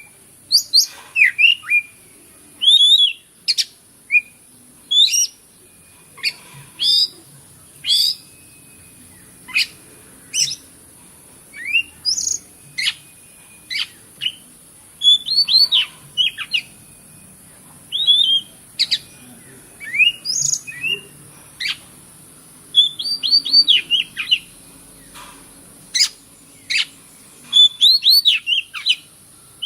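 Oriental magpie-robin (kacer) singing: clusters of short, sharp whistled notes and quick falling slurs, one burst after another every second or so with brief pauses between.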